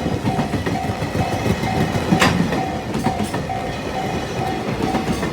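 Freight train of Koki container wagons rolling past with a steady rumble and clickety-clack of wheels over rail joints, one sharp clack about two seconds in. A level-crossing warning bell rings steadily through it at about two strikes a second.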